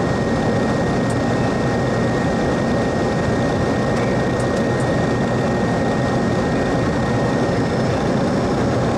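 Steady flight-deck noise of a Boeing 737-300 taxiing with its CFM56-3 jet engines at idle, heard from inside the cockpit as an even rush of engine and air noise with a thin steady whine above it.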